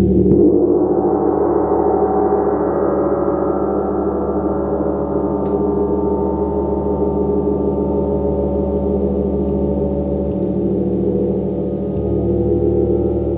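Gong struck at the start, its shimmering wash of many overlapping tones swelling over the first couple of seconds and then ringing on steadily over a deep, sustained hum.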